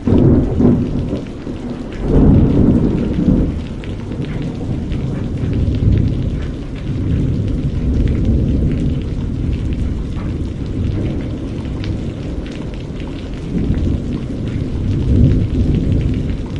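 Steady rain with low rolling thunder that swells and fades several times, loudest about two seconds in.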